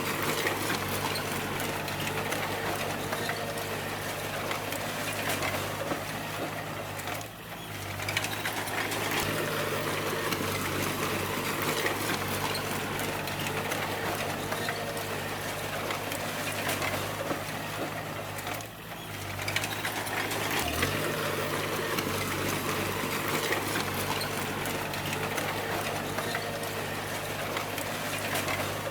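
Bulldozer's diesel engine running steadily under load, with a continuous mechanical clatter. Its sound dips briefly twice, about seven and nineteen seconds in.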